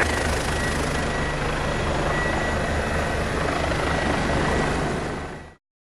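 Helicopter rotor and turbine running steadily, with a fast low rotor pulse and a faint steady whine; the sound fades out near the end.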